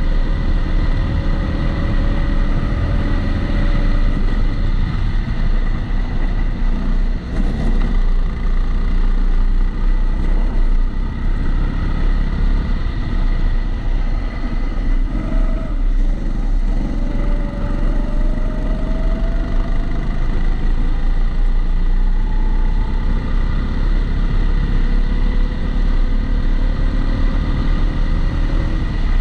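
Kombikart Eco rental kart engine heard onboard at speed, its pitch rising and falling slowly as the kart accelerates and slows. It is heard through a waterproof camera housing, with a constant high whine laid over it.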